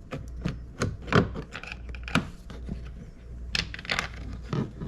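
Irregular light clicks and knocks of a screwdriver and loosened parts being handled against plastic door trim, about ten sharp taps with short rubbing between them.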